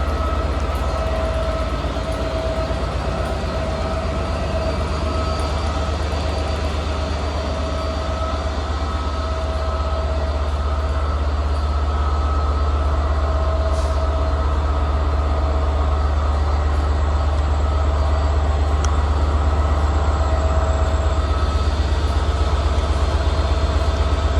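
Class 67 diesel locomotive 67029 'Royal Diamond' running steadily at a standstill: a deep, even engine drone from its two-stroke V12, with a higher whine that comes and goes. It grows slightly louder near the end.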